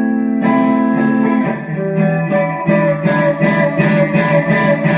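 Guitar playing the accompaniment of a gospel song with no singing: held chords for about the first second and a half, then a steady rhythmic strummed pattern.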